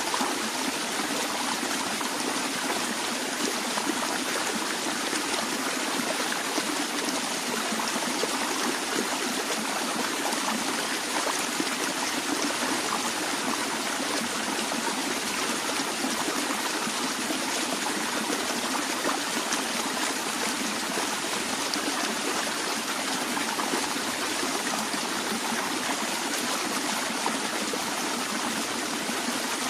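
A stream of gently flowing water, running steadily with a continuous rushing and trickling.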